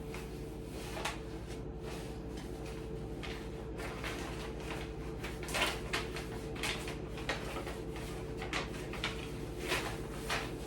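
Irregular light clicks and taps, a dozen or so spread unevenly, over a steady low electrical hum.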